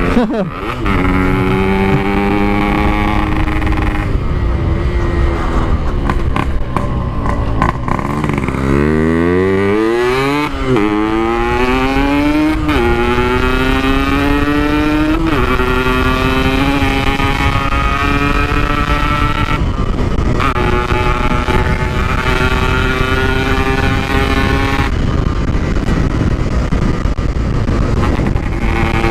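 Two-stroke single-cylinder engine of a Yamaha RX-King motorcycle, fitted with a stock-style Packing Power exhaust, accelerating hard through the gears. The pitch climbs and drops back at each shift, with a deep dip and a fast rev climb about a third of the way in, and two brief throttle lifts later on.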